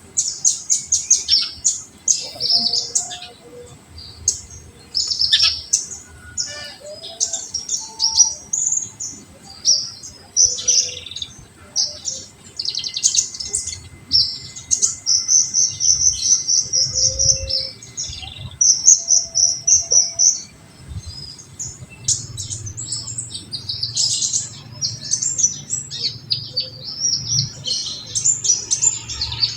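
Kolibri ninja sunbird song: fast, high-pitched chirps and rapid trilling bursts, with phrases repeated almost without pause. This is the full 'tembakan' song, used to stimulate and train young birds.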